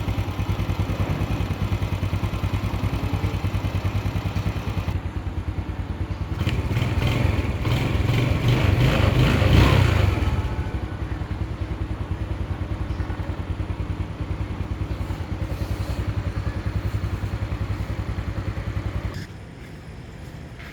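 Small engine of an RC car running with a fast, even firing pulse. It revs up about six to ten seconds in, settles back, and cuts off near the end.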